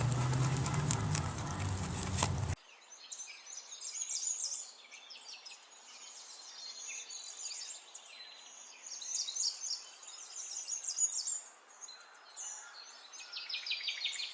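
Goat bleating for about the first two and a half seconds, then an abrupt cut to small birds chirping and twittering, many short quick calls, with a fast rattling trill near the end.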